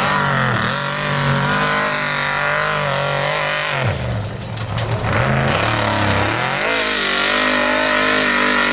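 Off-road trophy truck's race engine running hard under throttle. The revs drop sharply about four seconds in and again near six seconds as the throttle is lifted, then climb back to high, steady revs.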